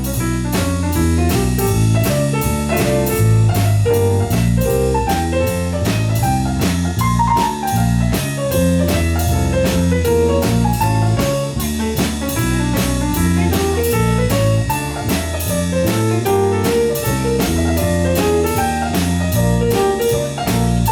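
Instrumental jazz played by a band with drum kit, piano and bass, on a steady quick beat of about four drum strokes a second.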